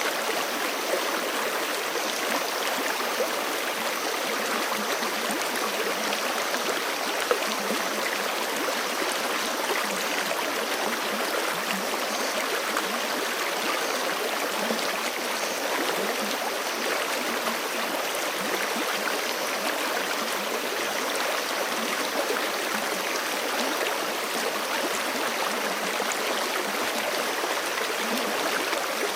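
Forest stream rushing steadily over rocks, an even splashing and gurgling of running water.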